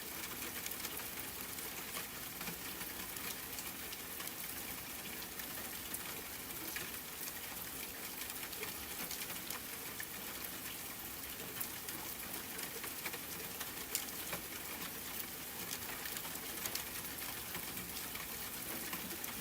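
Steady soft rain falling, an even hiss dotted with many sharp individual drop ticks.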